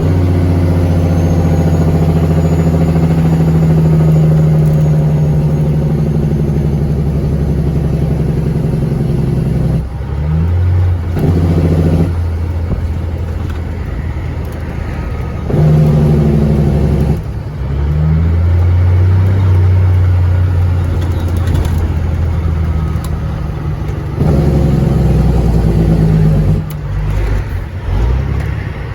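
Cat 3406E diesel engine of a Freightliner FLD120 semi truck, heard from the cab, running loud and steady under load, with several short dips in level over the span.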